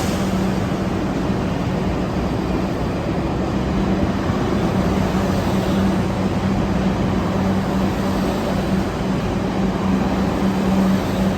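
New York City subway train in the station: a steady, loud running noise with a constant low hum.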